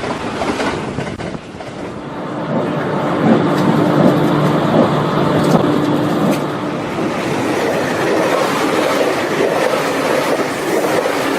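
Train running on track: a steady rolling noise, with a steady hum in the middle few seconds.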